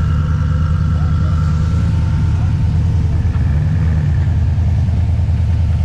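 Car engines rumbling at low speed as cars creep past, a deep steady burble with a short rise in pitch a little past halfway through.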